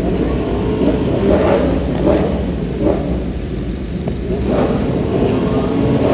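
Superbike racing motorcycles going past at high revs, several engines overlapping, their pitch swelling and falling away as each one passes, over a steady low rumble.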